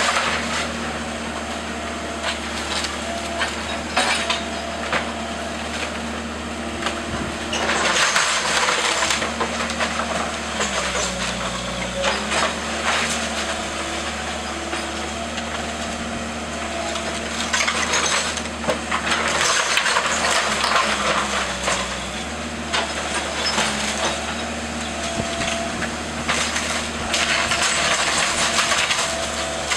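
Demolition machine's engine running steadily, its pitch dropping and rising again under load, while the wooden structure of a house is crushed and splintered in several bouts of cracking and crashing.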